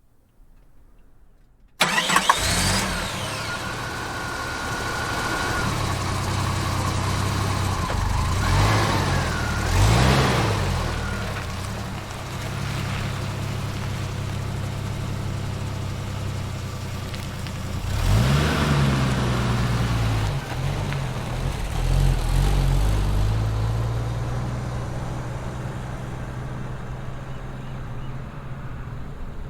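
An SUV's engine cranks and starts suddenly about two seconds in, then runs at low speed. Its pitch rises and falls a few times as the engine speeds up and slows while it backs out and manoeuvres.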